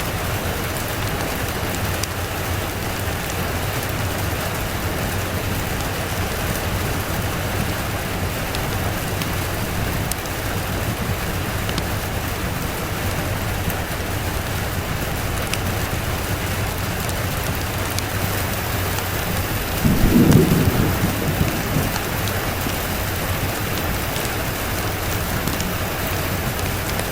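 Steady rain with a single thunderclap about twenty seconds in, a short low rumble that fades over a couple of seconds.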